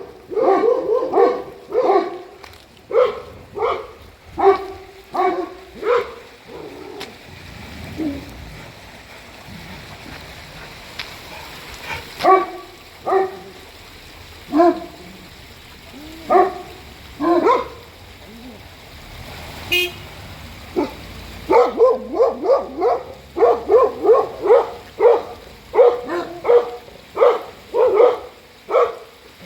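Dogs barking repeatedly, alerted by wild boars: a steady string of barks at first, sparser barks in the middle, then rapid barking again for the last several seconds.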